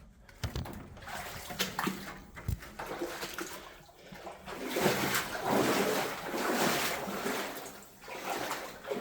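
Boots wading through shallow water, a run of uneven splashing and sloshing steps that grows louder in the second half.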